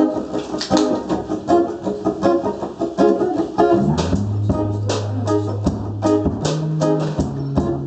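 Live band playing a song's instrumental intro: rhythmic guitar strumming, with held bass notes coming in about four seconds in.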